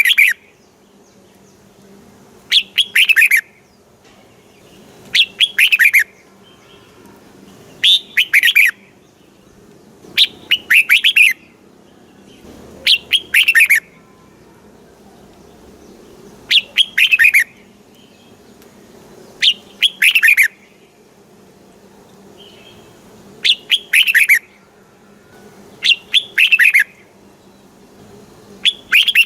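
Red-whiskered bulbul singing short phrases of quick, falling whistled notes, each under a second long, repeated every two to three seconds.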